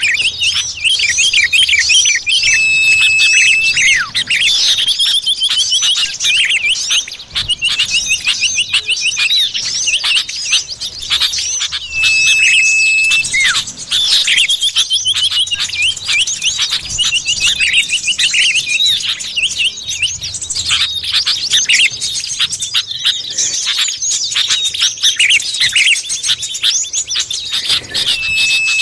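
Bird-lure recording of common iora (cipoh) calls: dense, rapid, high chirps and trills running without a break. A single held whistle note recurs about every ten to fifteen seconds.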